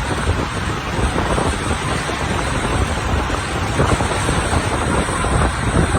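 Wind buffeting the microphone of a camera carried on a moving bicycle: a loud, steady rumbling rush, with road noise under it.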